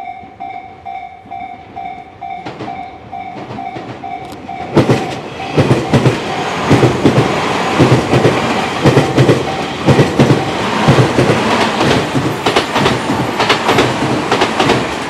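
A level crossing warning bell rings in a steady pulsing tone. About five seconds in, a Tobu Tojo Line electric train passes close by and loud, its wheels clacking rhythmically over the rail joints.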